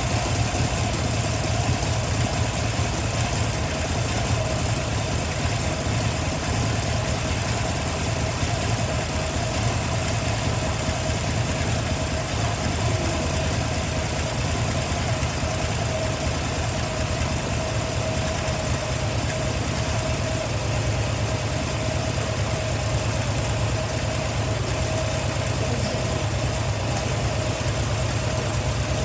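Harley-Davidson Dyna Street Bob's 1580 cc V-twin idling steadily just after being started, an even low pulsing beat with no revving.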